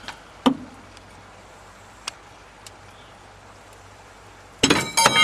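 Metal tools and parts clanking: one knock about half a second in, a couple of light ticks, then a quick run of several ringing metal clanks near the end.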